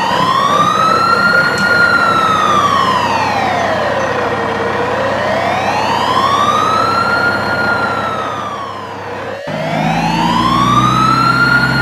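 A wailing siren, its pitch rising and falling slowly, about one full sweep every six seconds. About nine seconds in there is a sharp click, after which a low steady hum runs under the siren.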